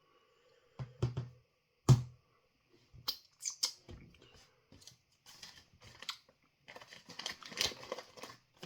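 Close handling noises: two sharp knocks about one and two seconds in, then a run of light, irregular clicks and crinkling rustles.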